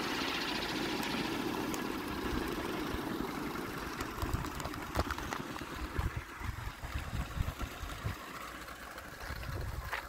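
A 700-size RC helicopter's rotor and drive whirring and fading away over the first few seconds, as if spinning down, followed by uneven low rumbles and a few sharp clicks.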